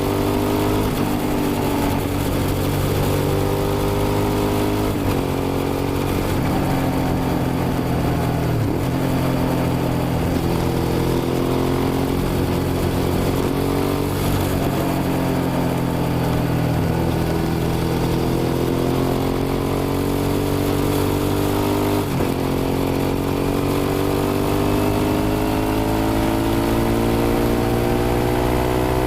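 Suzuki SV650's V-twin engine running under way, its note climbing steadily and dropping suddenly a few times before climbing again.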